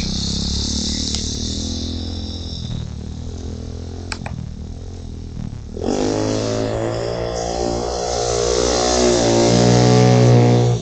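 Pit bike engine running. About six seconds in it gets louder and rises in pitch as the bike accelerates, peaking near the end.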